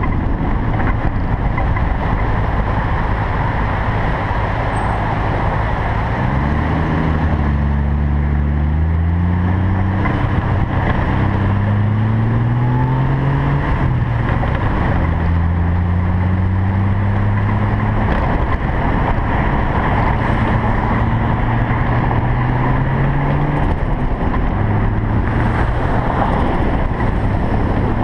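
Single-turbo Toyota Supra's engine heard through heavy wind and road noise. About six seconds in, its note climbs for several seconds, drops sharply, then holds fairly steady.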